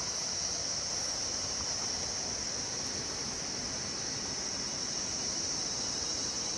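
Steady, unbroken high-pitched chirring of insects, such as crickets or cicadas, over a faint low rushing background.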